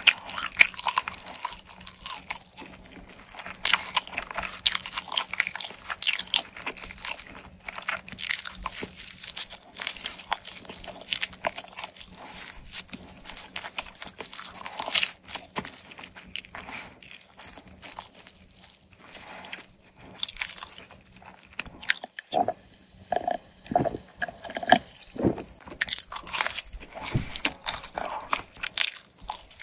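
Close-miked chewing and biting of a pizza crust end: many small, crisp crunches of the crust between the teeth, with wet mouth sounds in between and a fresh bite near the end.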